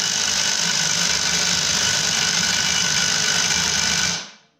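Impact wrench hammering steadily on a clutch puller bolt to pull the primary clutch off a snowmobile crankshaft. It cuts off about four seconds in without the clutch letting go.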